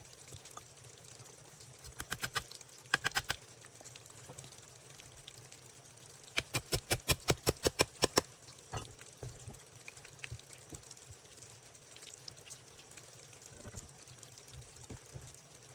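Quick series of sharp knocks: a short cluster about two seconds in, another about three seconds in, then a run of about ten at roughly five a second about six seconds in, over a faint steady high hiss.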